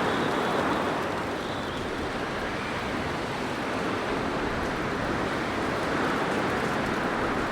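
Blizzard wind blowing steadily, a dense rushing noise that swells and eases slowly.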